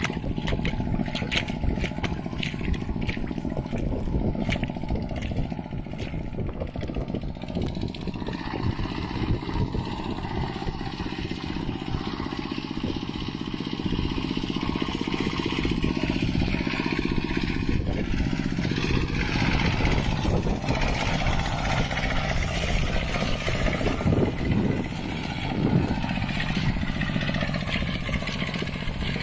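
Mini tractor's engine running steadily while it plows through a wet, muddy field.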